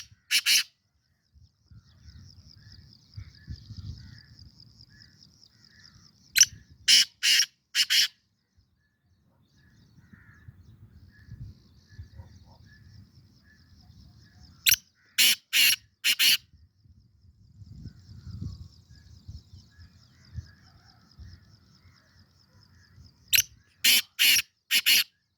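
Black francolin (kala teetar) calling: three loud, harsh phrases of four or five sharp notes each, roughly eight seconds apart. A faint high steady buzz and a low rumble sit under the calls between phrases.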